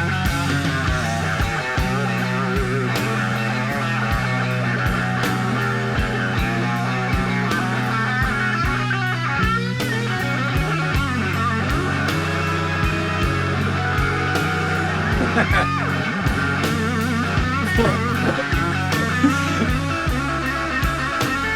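Live electric blues guitar solo with bent, wavering notes over a bass line and a steady drum beat.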